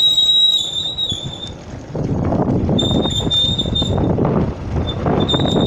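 Wind rushing over the microphone while riding, rising about two seconds in and staying, with a steady high whistle-like tone that fades out after about a second and a half and returns in patches.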